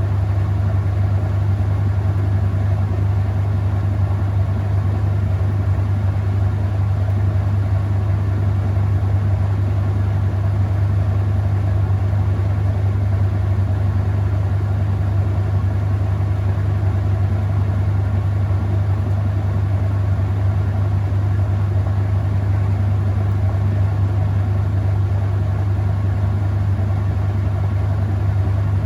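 Whirlpool top-load washing machine spinning, its motor running at a steady speed with a loud, even low hum.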